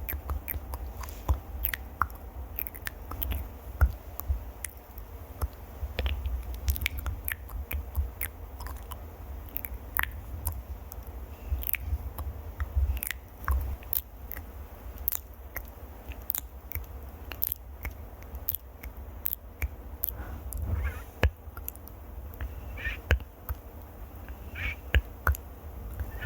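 Close-miked ASMR trigger sounds: a dense, irregular run of sharp clicks and crackles over a low rumble, with no speech.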